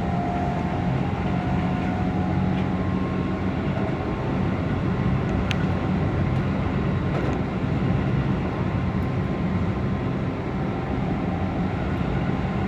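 Keihan electric train running steadily at speed, heard from the driver's cab: a constant rumble of wheels on rails, with a faint whine that fades within the first few seconds.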